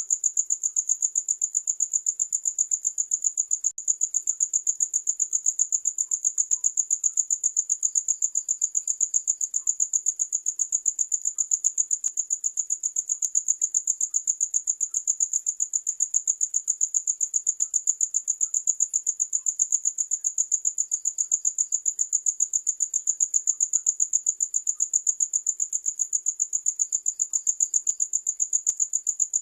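Cricket chirping in a fast, even, unbroken series of high-pitched pulses. Now and then a fainter second cricket joins in briefly.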